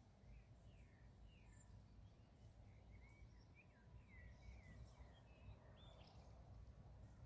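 Near silence in open country: faint bird calls, short chirps and whistled glides, over a faint low rumble.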